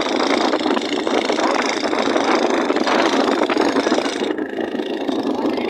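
A motor engine running steadily, loud and close.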